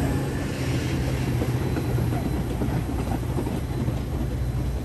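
Metra commuter train passing close by: bilevel passenger cars rolling past with a steady rumble of wheels on rail, over a low drone from the diesel locomotive that has just gone by, a little quieter than a moment before.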